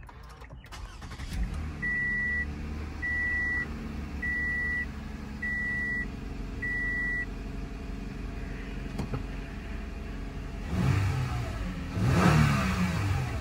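A 2017 Toyota Camry XSE's 3.5-litre V6 starting from the push-button ignition about a second in and settling to idle, heard from inside the cabin. A dashboard chime beeps five times, about one a second. Near the end the engine is revved twice.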